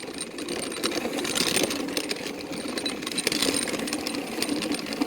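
Small go-kart engine running steadily during warm-up laps, a continuous buzzing drone with noise over it.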